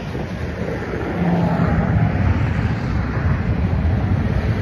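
CN freight train rolling past, a steady rumble of steel wheels on rail, a little louder about a second in, with wind on the microphone.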